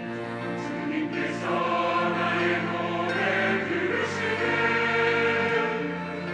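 Church choir singing a sustained, swelling anthem passage with instrumental accompaniment.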